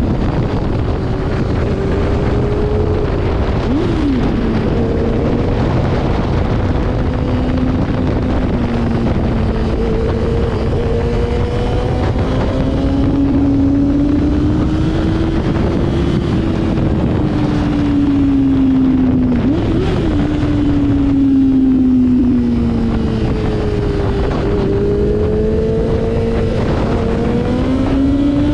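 Motorcycle engine running at speed, its pitch drifting slowly up and down, with two brief sharp blips of pitch, one about four seconds in and one near twenty seconds. Heavy wind rush on the microphone runs underneath.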